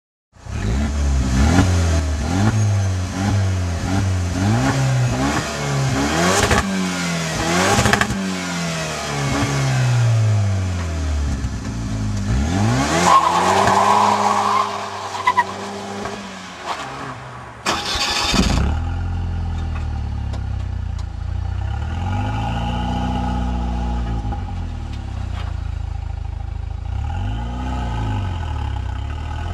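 Opel GT's 2.0-litre turbocharged four-cylinder engine heard through its exhaust, revved up and down over and over for the first dozen seconds, then dipping and rising again. After a sudden change about two-thirds of the way through, it runs at a steady low note with two gentle rises in revs.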